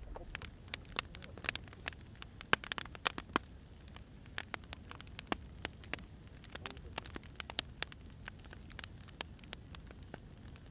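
Firewood burning, crackling with irregular sharp pops and snaps over a low steady rumble of the flames; the pops come thickest about a third of the way through.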